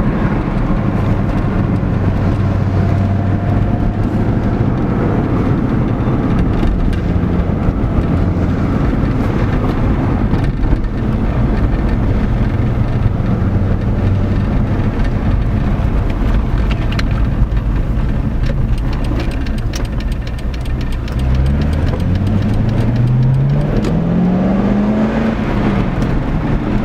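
C5 Corvette's V8 engine running as the car is driven, holding a steady note at a light cruise, with road noise. About 21 seconds in the engine note climbs as the car accelerates through a gear, then drops back near the end at an upshift of the manual gearbox.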